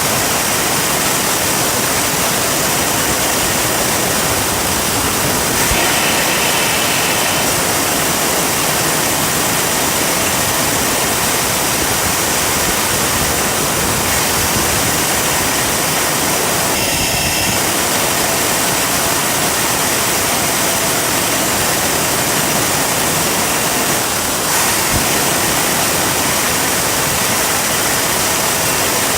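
Turbocharger jet engine running steadily: a loud, even rushing roar with a faint whine in it. Brief higher whistling tones come in about 6 seconds and 17 seconds in.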